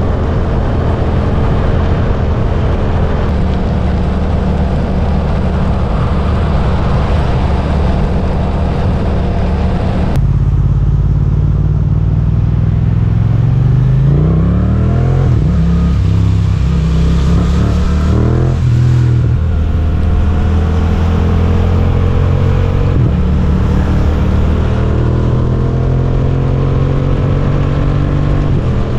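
Suzuki GSX-8S 776 cc parallel-twin engine running under way. It is steady for about the first ten seconds, then changes abruptly and rises in pitch twice in quick succession around the middle as it accelerates through the gears, before settling into a steady, slowly climbing drone.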